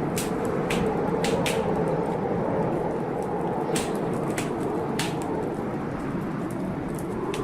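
Wood fire crackling in a fireplace, with sharp pops every second or so, over a steady rushing storm noise.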